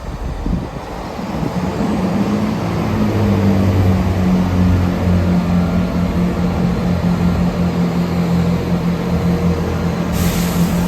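Diesel train engine running with a steady low drone that builds over the first couple of seconds and then holds. A short hiss of air comes near the end.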